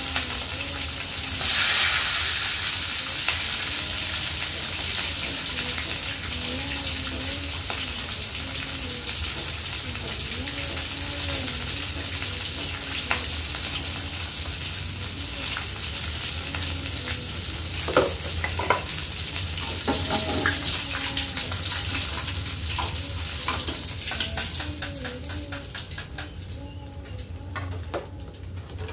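Chicken wing pieces frying in hot oil in a wok, a steady sizzle, with a few sharp knocks about two-thirds of the way through. The sizzling thins out near the end as the pieces are lifted out of the oil.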